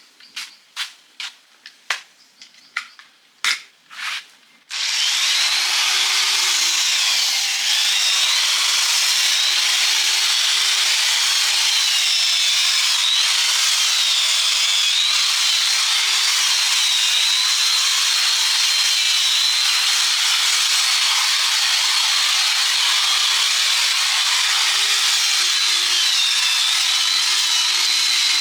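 A few sharp knocks, then about five seconds in a handheld power tool starts up and runs steadily against metal, its high whine wavering as the load changes.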